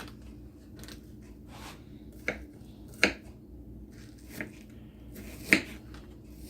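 Kitchen knife chopping partly frozen cooked chicken into bite-sized pieces: four sharp knocks at irregular intervals, the loudest about five and a half seconds in.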